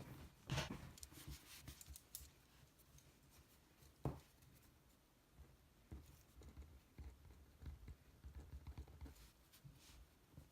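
Faint handling sounds: a few sharp clicks, one about four seconds in, then soft, irregular low knocks of objects being moved.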